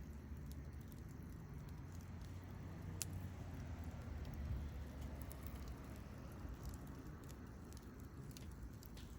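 Wood campfire crackling, with scattered pops and one sharper snap about three seconds in, over a low steady rumble.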